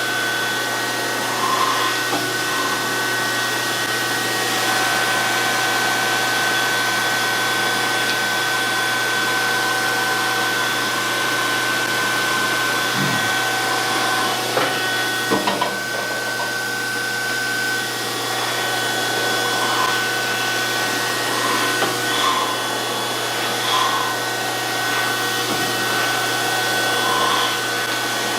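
DoAll 14-inch surface grinder running steadily: a constant whir with a high whine and a low hum underneath, and short faint chirps every couple of seconds as the work passes under the wheel. A couple of brief knocks come about halfway through.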